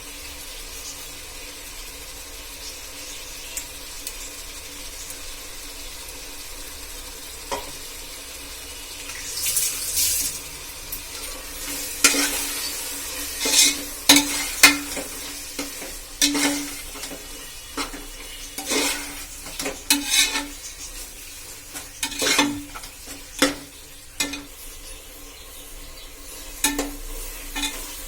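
Food sizzling in hot oil in a metal cooking pan. About a third of the way in, a spoon or ladle starts stirring, scraping and clanking against the pan in irregular strokes.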